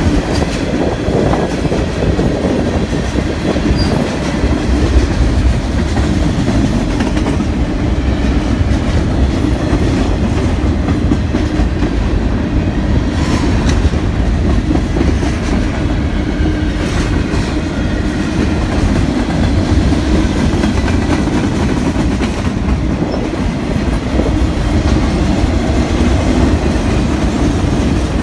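Canadian National mixed freight train rolling past close by: a steady rumble of freight cars, with the wheels clicking now and then over the rail joints.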